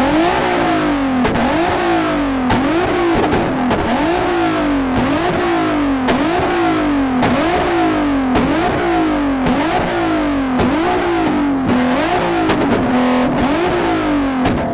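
Car engine revved over and over, about once a second: the pitch jumps up sharply and falls back each time, with a short crack as each rev starts.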